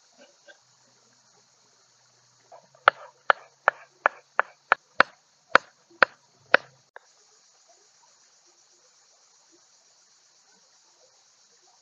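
Crickets chirping steadily throughout. In the middle stretch there is a run of about eleven sharp knocks, two or three a second.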